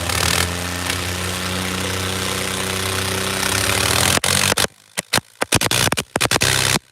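Tractor diesel engine running steadily over a loud background haze. From about four seconds in, the sound repeatedly cuts out for short moments and comes back.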